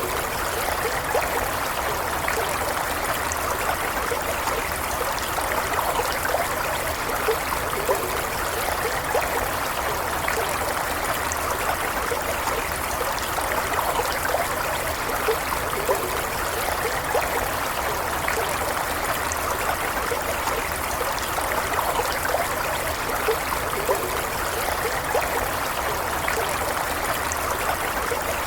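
Shallow stream running steadily, with a continuous babble and trickle of water over stones and small gurgles.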